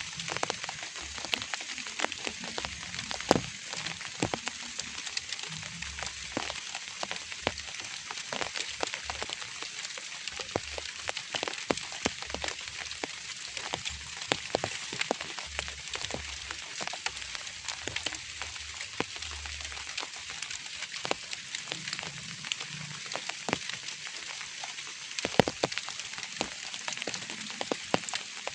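Light rain falling steadily, a drizzle: an even hiss with many irregular, sharp drop ticks, a few of them louder.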